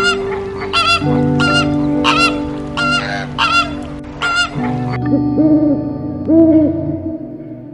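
Domestic geese honking: a quick series of loud, repeated honks through the first four and a half seconds. From about five seconds a different, lower-pitched animal call repeats several times.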